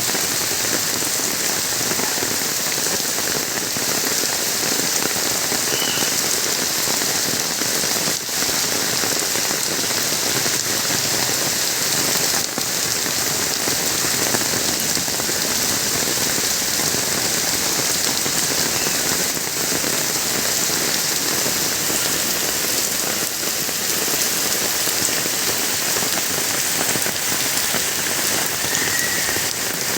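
Steady rain falling on surfaces, an even, unbroken hiss of drops.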